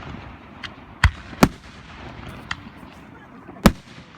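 Fireworks going off: three loud bangs, two close together about a second in and one near the end, with a few fainter pops between.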